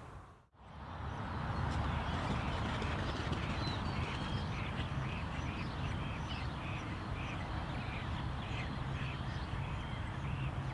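Wetland birds calling: a series of short high notes repeating about twice a second over a steady low rumble.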